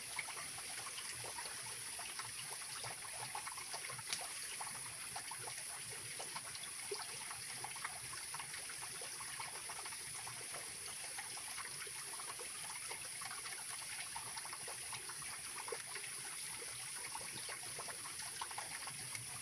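Mountain river water rushing and trickling steadily, with faint scattered crackles and one sharper tick about four seconds in.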